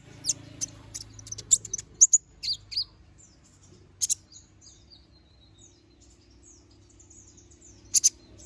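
A kolibri ninja (konin) sunbird singing: sharp, high chirps in quick bursts in the first few seconds, a softer run of short twittering notes after the middle, and another loud chirp near the end, over a faint low hum.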